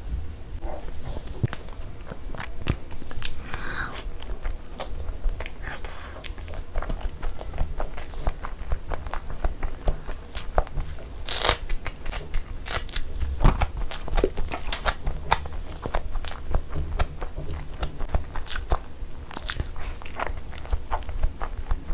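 Close-miked ASMR chewing and biting as a person eats egg masala with puri, with many short, sharp wet mouth clicks and smacks.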